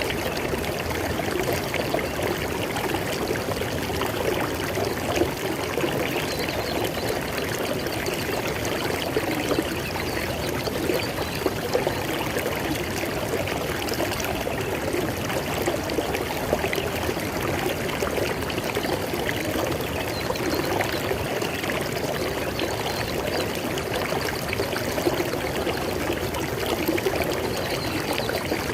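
River water flowing and splashing over rocks: a steady, even rush with a fine bubbling texture.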